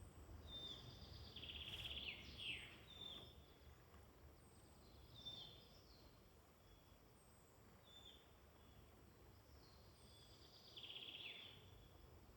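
Faint woodland birdsong from several birds: a thin, very high falling note repeated about every second and a half, short chirping phrases, and two brief buzzy trills, about two seconds in and again near the end.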